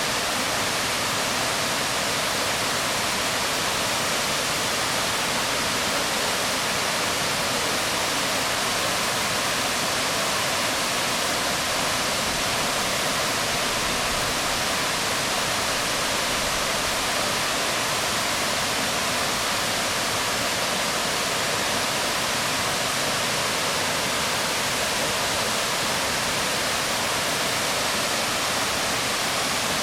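Waterfall pouring onto rocks: a steady, even rush of falling water with no change.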